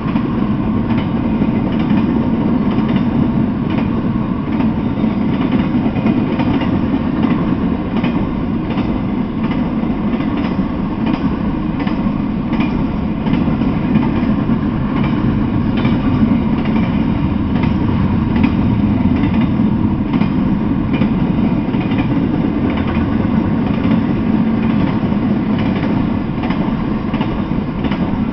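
Intermodal freight train of containers on well cars rolling past, its wheels on the rails making a steady, unbroken running noise with faint repeated clicks.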